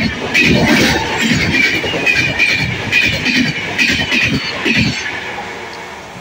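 Passenger express train coaches passing at speed close by, wheels clattering over the rail joints about twice a second with a high metallic ring from the wheels on the rails. The sound fades near the end as the last coach goes by and the train draws away.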